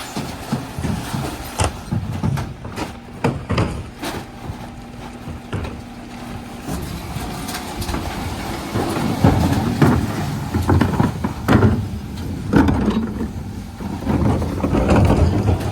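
Dennis Elite 6 refuse truck running with a steady engine hum while its bin lifters work, with sharp knocks and clatter in the first few seconds. From about nine seconds in come louder, rumbling surges of bins and recycling being tipped.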